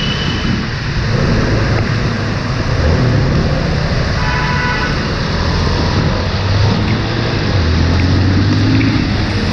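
Motorcycle running on the road under a dense rush of road noise, its engine note strengthening in the second half, with a short vehicle-horn honk about four seconds in.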